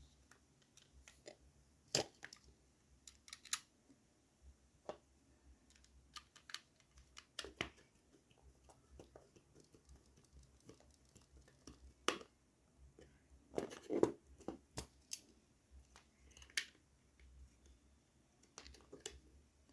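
Faint, scattered small clicks and taps of a DT830D digital multimeter's plastic parts being handled and fitted during reassembly, with a short burst of clicks about two thirds of the way through.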